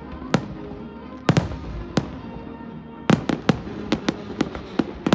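Aerial fireworks bursting. A few separate bangs come about a second apart, then from about three seconds in a quick run of bangs follows, several a second.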